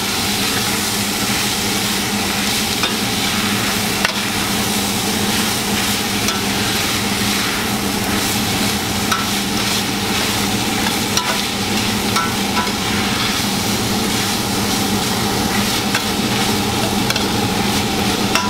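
Shrimp, chicken, shallots and green onions sizzling steadily in hot oil in a stainless steel skillet while a spatula stirs them, with a few sharp clicks of the spatula against the pan.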